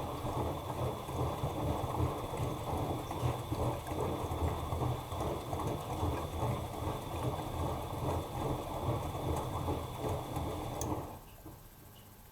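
Bosch Maxx Advantage WFCX2440 washing machine drum turning during the wash, with wet laundry and water churning and a faint motor whine. It stops about a second before the end, as the drum pauses between turns.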